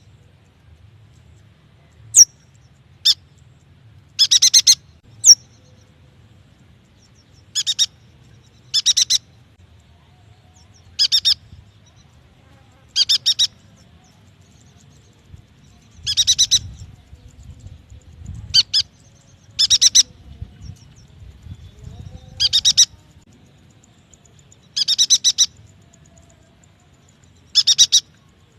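A yuhina calling over and over: short bursts of rapid, high chattering notes every one to three seconds, with a few single sharp chirps in between. A faint low hum sits underneath.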